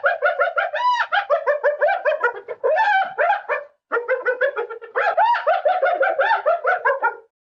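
An animal's rapid, repeated high-pitched calls, several a second, in two long runs with a short break about four seconds in.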